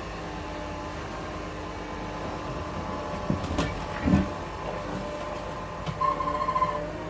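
Heavy-equipment diesel engine running steadily under load during a rollover recovery, with a few metallic knocks a little past the middle and a brief pulsing high tone near the end.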